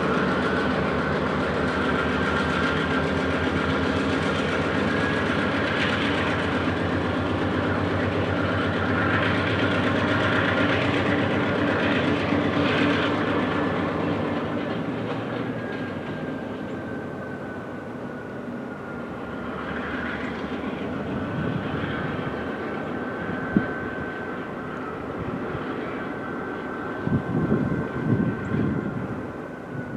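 Freight train cars rolling past over junction trackwork, the wheels clicking and rumbling, with a steady high-pitched squeal over the top. The train sound fades after about halfway, and uneven low rumbles come in near the end.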